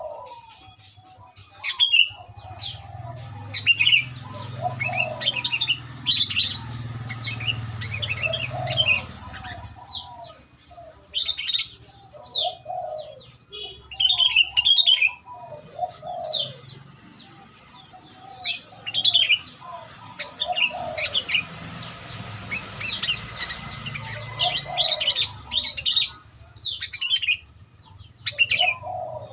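Sooty-headed bulbul calls: repeated sharp, high chirps in quick clusters, with lower bubbly notes between them. This is a lure call, meant to provoke rival bulbuls into answering.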